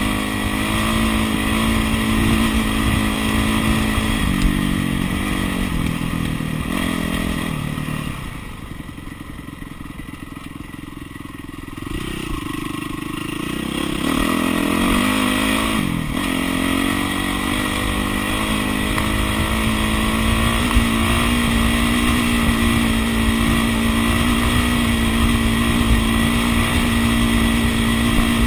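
2009 Yamaha YZ450F's single-cylinder four-stroke engine running under way on a ride. About eight seconds in its revs and loudness drop for a few seconds, then it picks up again with a brief rise and fall in pitch and runs steadily.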